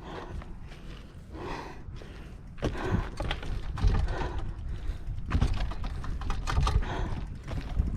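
Irregular clicks, knocks and crunches of a mountain bike and rider moving over a loose, rocky trail, with wind rumbling on the microphone.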